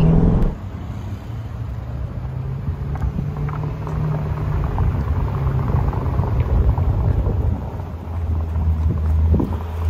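Chevrolet Corvette C8 Stingray's mid-mounted V8 running at low revs as the car rolls slowly up, a steady low drone that rises a little partway through and drops lower near the end.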